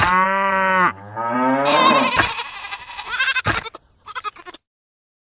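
A long, wavering bleat like a goat's, followed by about three seconds of mixed clatter and higher-pitched sounds that stop before the end.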